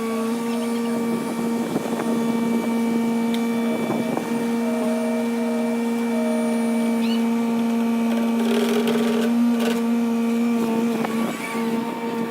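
Hyundai HW60 wheeled excavator's diesel engine and hydraulics running at a steady speed, giving a constant hum, with short spells of rougher working noise about 2, 4 and 9 seconds in.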